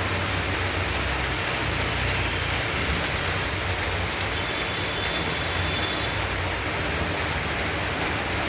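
Heavy tropical downpour: rain pouring steadily, with a low hum underneath.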